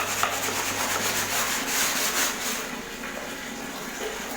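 Rhythmic scrubbing of an unrolled RO membrane sheet as the caked dirt is washed out of it, quick even strokes that stop about two and a half seconds in, leaving a softer steady hiss.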